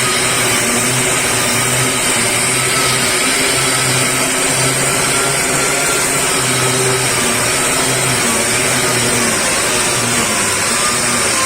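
Power sander running steadily, dry-sanding body filler on a car's bodywork.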